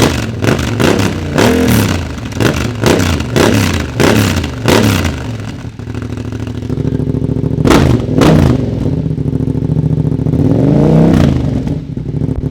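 Yamaha Ténéré 700's parallel-twin engine through a Dominator MX2 exhaust with its stock dB killer fitted, idling and being revved by hand. First comes a rapid run of about eight throttle blips. It drops back to idle, then gives two sharp blips and one slower, longer rev before idling again.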